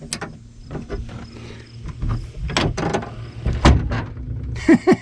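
Scattered clicks and clunks of a 2018 Ford F-150 tailgate latch and its linkage rods being worked by hand, with the inner panel off. A loose plastic clip on the latch rod had kept the latch from letting go.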